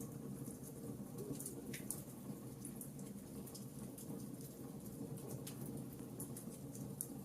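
Fireplace crackling: a soft steady rush of burning with scattered sharp pops and snaps of burning wood, a few each second.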